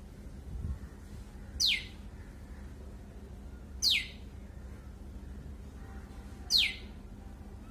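A small bird giving three loud calls a couple of seconds apart, each a single quick note that sweeps steeply down in pitch.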